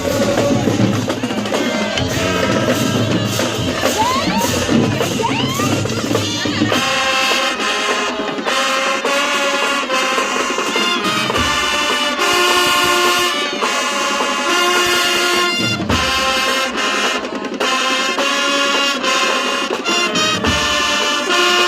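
A marching band playing. For about the first seven seconds drums and percussion lead, then the brass section comes in with held chords over the percussion.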